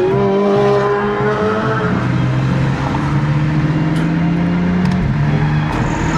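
BMW F80 M3's twin-turbo S55 inline-six engine and exhaust pulling under throttle: the pitch climbs, holds high for about two seconds, then settles to a lower, steady drone.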